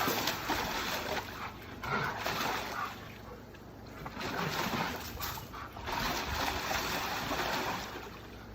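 Water splashing and sloshing as a dog moves about in a shallow foldable PVC dog pool, in several bursts of a second or two.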